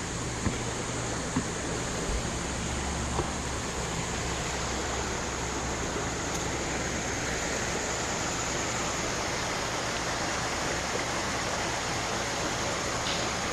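Steady rushing of a mountain stream over rocks, with a faint low engine hum underneath.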